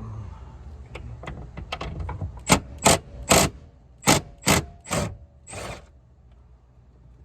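Ratchet wrench loosening a 13 mm steering column mounting bolt: light clicking at first, then about seven loud ratcheting strokes in quick succession, stopping about two-thirds of the way in.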